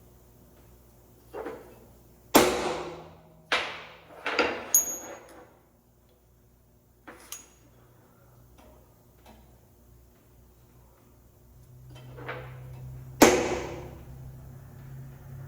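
Steel parts clanking, about eight sharp metal strikes with short ringing tails and the loudest near the start and near the end. A low steady hum comes in near the end.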